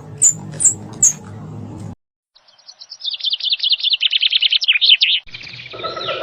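A run of very high, short squeaky chirps about twice a second. After a brief break, a bird sings a fast trill of notes that falls in pitch. Near the end a different, noisier sound with steady tones cuts in.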